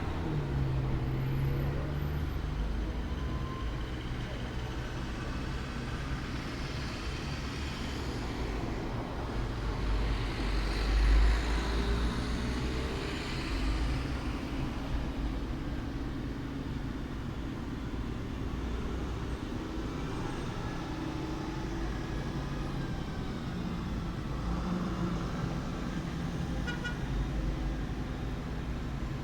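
Road traffic noise: a continuous low rumble of passing vehicles, swelling louder as one goes by about eleven seconds in.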